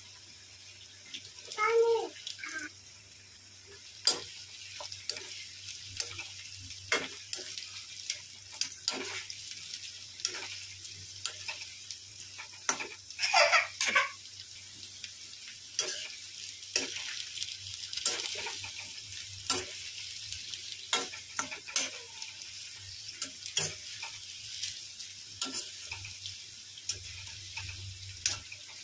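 Jackfruit pieces deep-frying in hot oil in an iron kadhai, a steady sizzle. A steel spoon stirs and scrapes against the pan, with frequent clinks and clicks, a short squeak about two seconds in and a louder scrape about halfway through.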